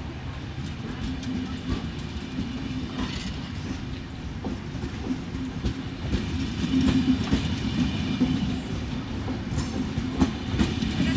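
Vivalto double-deck regional train pulling out of the station and rolling past, its wheels clacking over the rail joints. It grows louder from about halfway through as it picks up speed.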